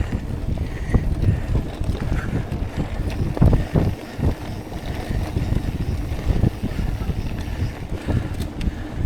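Mountain bike rolling fast over a dirt trail: a dense, irregular rumble of tyres and bike rattle, with wind buffeting the action camera's microphone. A few harder knocks come from bumps, the loudest about halfway through.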